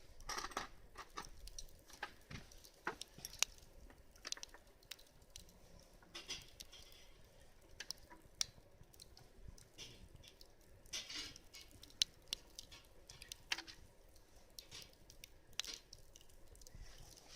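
Irregular light clicks and short crackles or rustles, scattered through the stretch with no steady rhythm, a few sharper ticks standing out.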